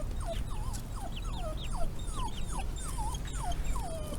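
A dog whining in a string of short, high, falling whimpers, about two or three a second, eager to get at the chickens.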